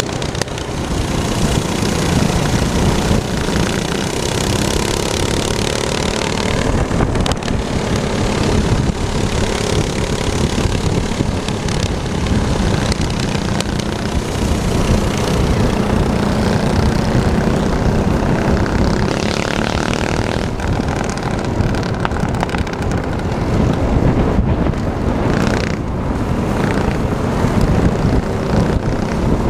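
Small minibike engine running loudly and continuously, its pitch shifting a little up and down.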